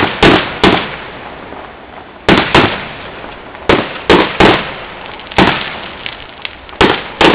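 Fireworks going off: about eleven loud, sharp bangs in irregular clusters of two or three, each with a fading echo.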